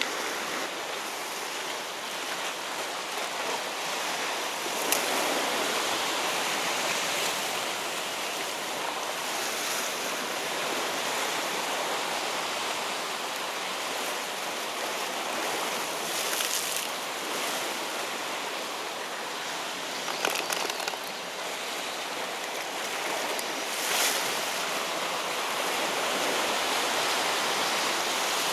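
Sea waves washing steadily against a rocky shore, a continuous rushing, with a few brief clicks scattered through it.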